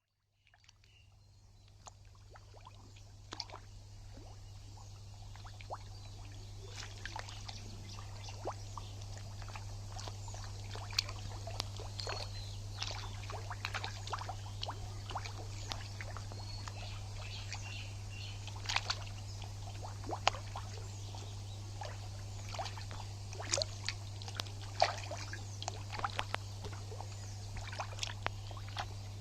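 Water splashing and trickling at biofloc fish tanks, with many sharp splashes scattered throughout, over a steady low hum. It fades in over the first few seconds.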